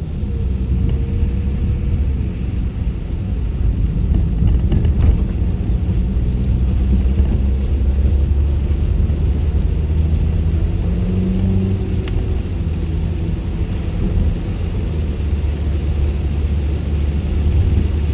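Steady low rumble of a car driving, heard from inside the cabin with the windows up: tyre and engine noise, with a few faint ticks about four to five seconds in.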